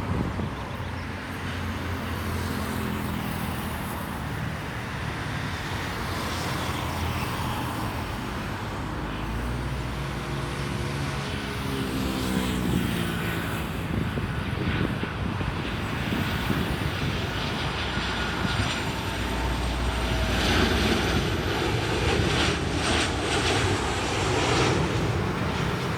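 Boeing 737-800's CFM56 turbofan engines on final approach, passing by. The engine tones fall in pitch about twelve seconds in as the jet goes past, then a steady jet noise continues.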